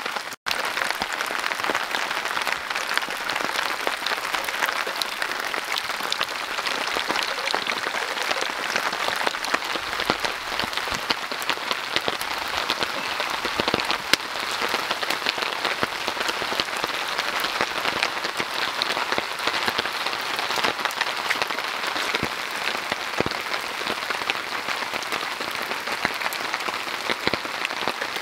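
Heavy, steady rain in a rainstorm: a dense patter of countless drops hitting close by. The sound cuts out for an instant just after the start.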